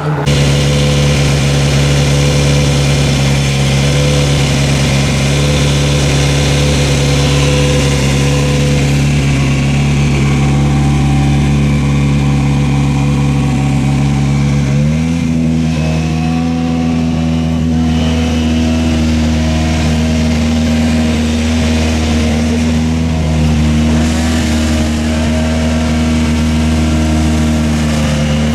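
Rally car engine running steadily at a held engine speed. About halfway through the pitch steps up to a higher steady note and stays there.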